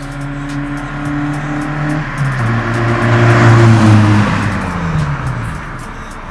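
Honda Civic hatchback's four-cylinder engine accelerating as the car drives past. Its note climbs and grows louder, peaks about three and a half seconds in, then drops in pitch and fades as the car moves away.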